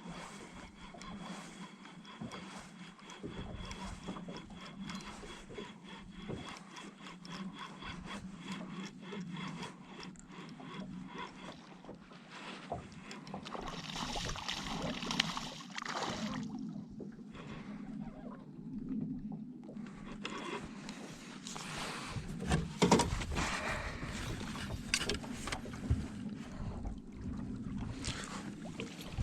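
Clicks, rubs and knocks of fishing tackle and boat handling while a hooked fish is being reeled in, with louder scraping and noise stretches in the second half.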